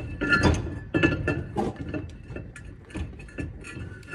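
Metal brake parts and hand tools clinking and knocking against each other: an irregular run of sharp metallic clinks with a short ringing tone.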